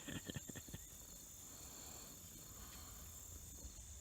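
Faint, steady insect chorus, a continuous high-pitched trill of crickets. A few soft clicks or rustles in the first second.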